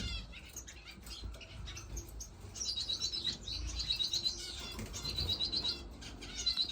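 Small caged finches chirping, with quick runs of repeated high notes that come three times from about two and a half seconds in.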